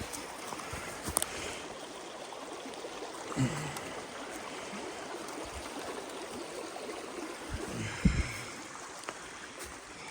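Stream water flowing steadily, with a couple of short low knocks.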